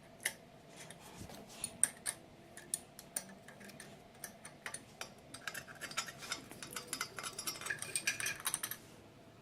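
Hand wrench working the water-pump bolts off a small-block Chevy 350: light metallic clicks and taps, then about halfway in a quick, steady run of clicks lasting a few seconds, like a ratchet backing out a bolt.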